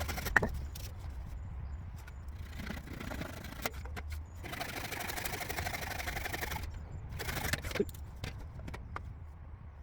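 Saw cutting through a piece of wood in short spells of strokes, with a sharp knock of wood about half a second in and another near the end.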